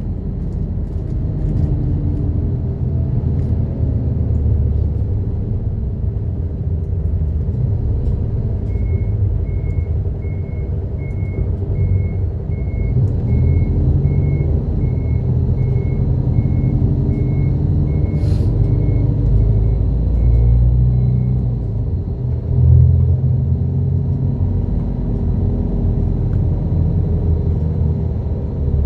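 Route bus heard from inside while it drives, with a steady low engine and road rumble. From about nine seconds in, a beep repeats roughly every three-quarters of a second for about twelve seconds, and a single sharp click comes just after the middle.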